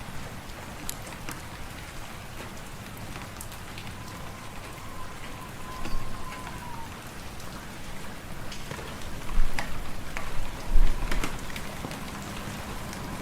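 Wood fire crackling in a fireplace: a steady hiss with sharp pops and snaps, the loudest cluster of pops about nine to eleven seconds in.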